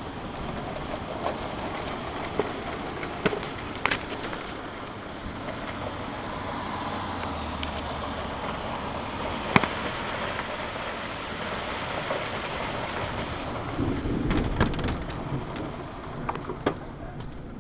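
Heavy thunderstorm rain pouring down steadily, with scattered sharp taps of drops striking nearby surfaces.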